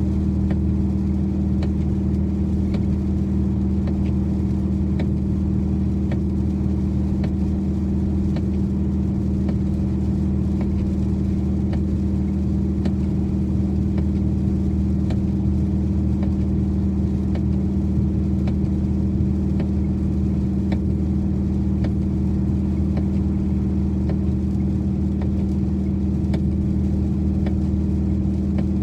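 2012 Dodge Challenger R/T's 5.7-litre Hemi V8 running steadily at a constant cruising speed, its low hum holding one pitch throughout, heard from inside the car. Faint scattered ticks, rain hitting the car, sound over it.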